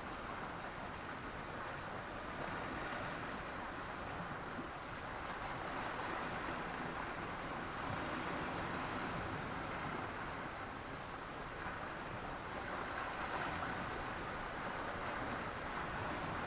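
Sea waves washing onto the beach in a steady wash of surf that swells and eases every few seconds.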